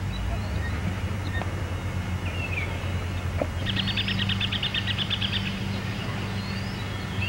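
Outdoor birdsong: scattered high chirps and one fast trill lasting about two seconds, starting a little under four seconds in. A steady low hum runs underneath, with a couple of faint knocks.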